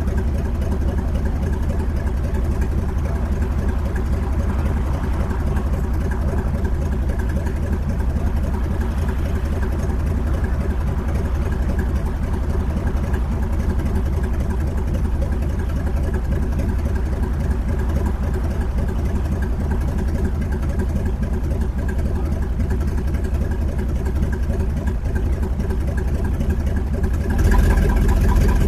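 An old car's engine idling steadily while the car sits stopped, picked up close by a microphone on its hood. It grows louder for a moment near the end.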